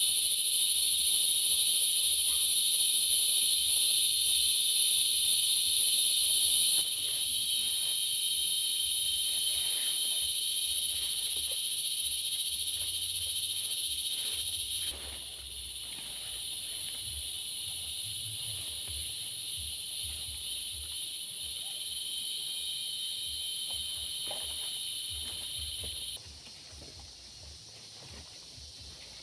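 Forest insect chorus: a continuous, shrill high-pitched buzzing. It drops suddenly in level about a quarter of the way in, again about halfway, and again near the end.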